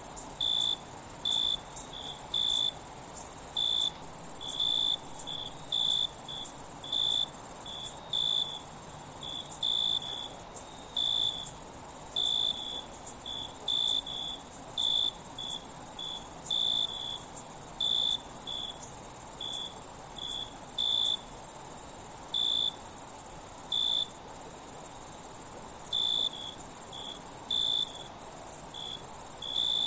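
Night insect chorus: crickets keeping up a dense, continuous high-pitched trill, with a lower-pitched cricket chirping in short pulses, one or two a second.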